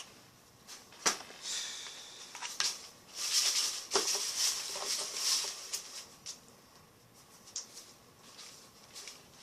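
Close handling noise: rustling with a few sharp clicks, busiest in the first half and quieter near the end.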